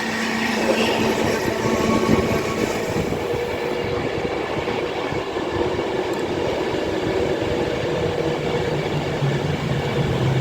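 Avanti West Coast passenger train running through the station platform: a steady rumble of wheels on rail, with a few steady machine tones in it.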